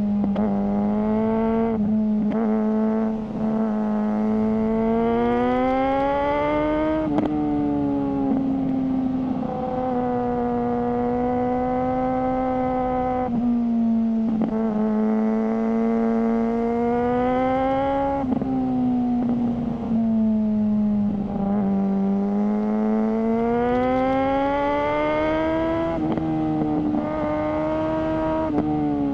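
Suzuki GSR600's inline-four engine with a GPR Ghost aftermarket exhaust, under way: a steady engine note that rises and falls slowly in pitch, broken by short breaks every few seconds.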